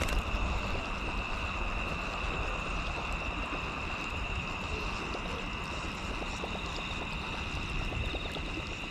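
Steady riverside ambience: running water and wind rumble, with a continuous high-pitched hum over it.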